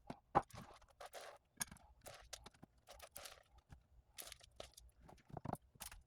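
Faint, irregular clicks and short rustling scrapes of things being handled.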